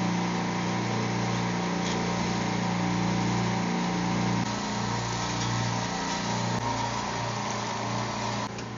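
Supermarket refrigeration rack compressors running with a steady low hum and mechanical noise, on a test run after rewiring the oil safety. The hum shifts slightly twice, and part of the noise cuts off abruptly near the end.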